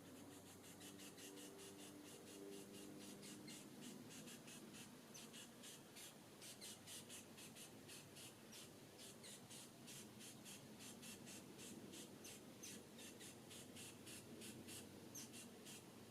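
Faint insect chirping: a steady train of short, high, scratchy pulses, about three a second.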